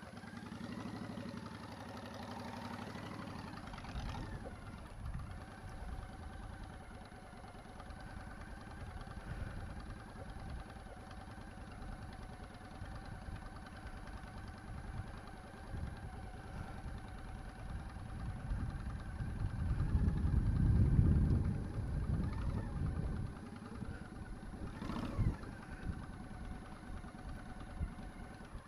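Motorcycle engine running at low speed during a slow-ride exercise, a steady hum with low rumble; a louder low rumble swells about twenty seconds in, and a short sharp sound comes a few seconds later.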